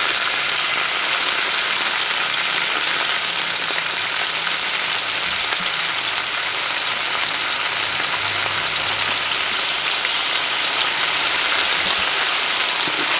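Hot oil sizzling steadily in a wok, with garlic, ginger, onion and carrot strips frying in it.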